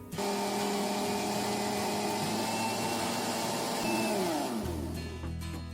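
Countertop blender running at speed, mixing cake batter of eggs, sugar, chocolate powder and margarine, its motor noise steady. Near the end the pitch falls as the motor slows and stops.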